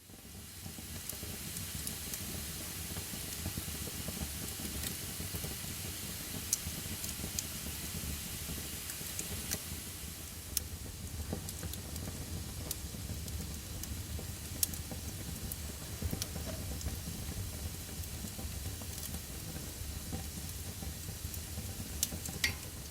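Fire burning with a steady hiss and scattered sharp crackles and pops.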